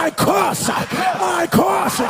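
A preacher's loud, shouted voice declaring a prayer.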